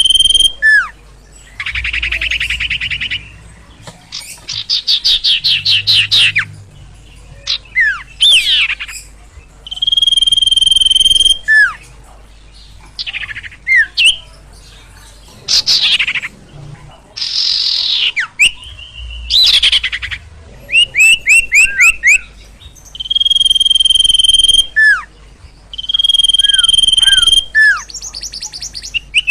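A sirtu songbird singing loudly in an excited, varied song. Long steady high whistles alternate with buzzy and rapid trills and sharp down-slurred notes, phrase after phrase with short pauses between.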